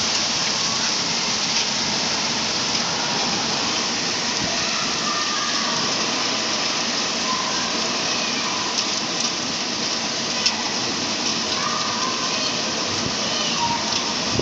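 Heavy rain pouring down in a storm: a steady, loud hiss of downpour, with one sharp knock about ten seconds in.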